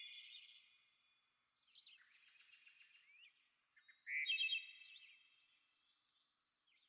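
Birds singing in short phrases of high chirps and whistles. The phrases are loudest at the start and about four seconds in, with near quiet between them.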